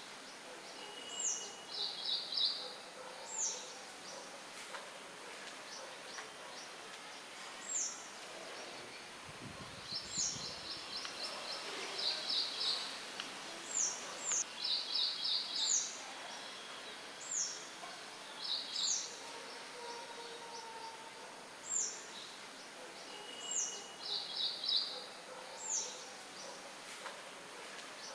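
Several songbirds chirping over a soft steady hiss of wind in the leaves: short high notes sliding downward, repeated every second or two, mixed with quick trilled phrases. A brief low rumble of wind comes about ten seconds in.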